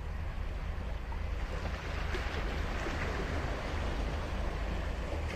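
Ocean surf on a sandy beach: a steady wash of waves over a low rumble, with one wave breaking and hissing up the shore about two seconds in.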